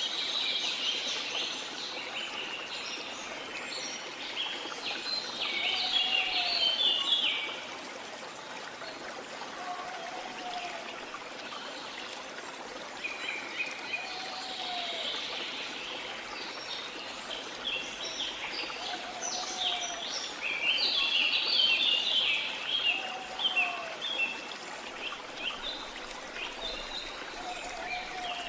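Tropical rainforest ambience: running water hissing steadily under bouts of dense bird chatter, with a short low call repeating about every three and a half seconds.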